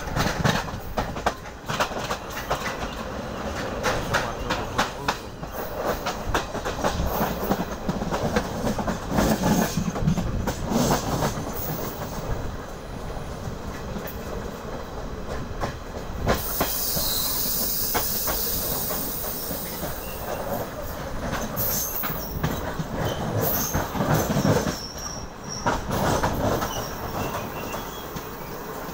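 Passenger train running along the track, heard from the open doorway of a carriage: steady rumble with the wheels clattering over rail joints in irregular clicks. A stretch of high hiss comes in about halfway through.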